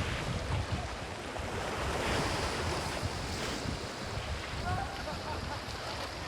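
Sea waves washing in, swelling about two seconds in, with wind buffeting the microphone as a low rumble.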